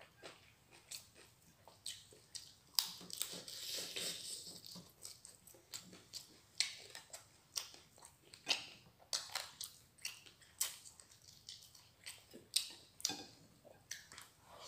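A person chewing a mouthful of food close to the microphone: a run of wet smacks and clicks, with a longer crunchy stretch about three to four seconds in.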